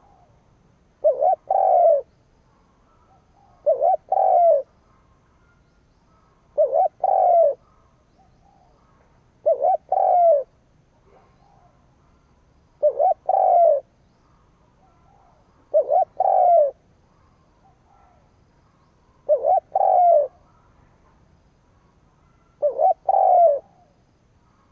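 A spotted dove (a decoy cu gáy) cooing. Each phrase is two short notes and a longer one, and it repeats about every three seconds, eight times. This is the decoy's call for drawing wild doves in.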